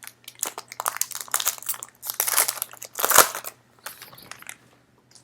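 Crinkling and crackling of trading-card pack packaging being handled, in quick irregular rustles with the loudest crunch about three seconds in.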